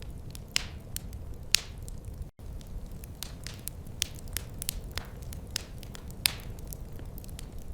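Wood fire crackling in a fireplace: irregular sharp pops and snaps over a steady low rumble, with the sound cutting out for an instant a little over two seconds in.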